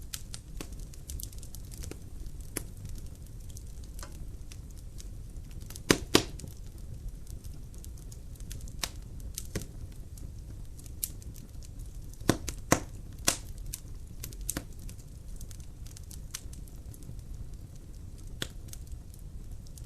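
Wood logs burning in a fireplace, crackling with scattered sharp pops over a low steady rumble. The loudest pops come about six seconds in and twice more around twelve to thirteen seconds.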